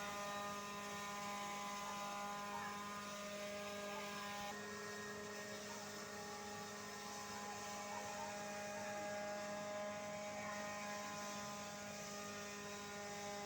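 Electric centrifugal flour mill (pulverizer) running steadily on solar power, giving an even electrical hum made of several steady tones.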